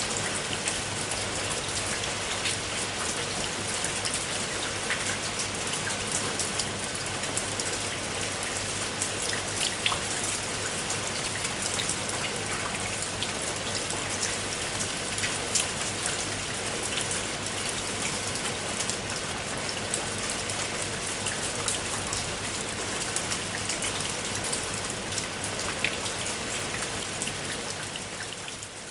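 Steady rain falling, with many small individual drop hits heard through an even hiss. The sound dips briefly right at the end before picking up again.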